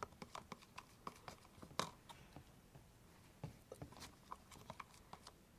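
Faint, irregular wet clicks and taps of glue-and-borax slime mixture being stirred, with one louder tap about two seconds in.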